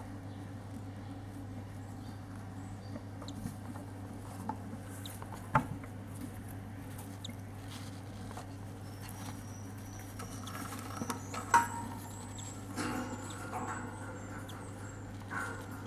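Cockatiel chick making thin, high squeaky peeps and scratchy rustling from about the middle on, with scattered sharp taps, the loudest about 5.5 and 11.5 seconds in, over a steady low hum.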